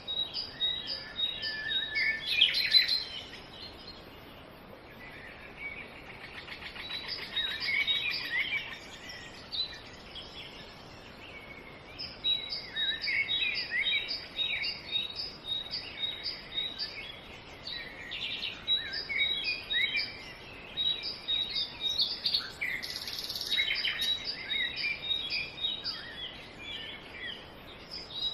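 Several small birds chirping and twittering, with a short high note repeated steadily through the second half over faint outdoor background noise.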